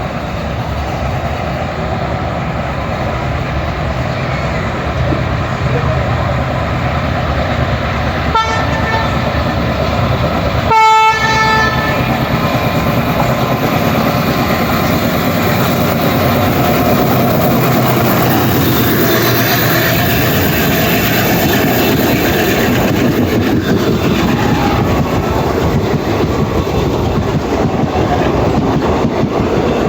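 A passenger train running past on the rails, with a steady rumble and rattle of wheels on track that grows a little louder. A short faint horn toot comes about eight seconds in, and a louder short horn blast follows about two and a half seconds later.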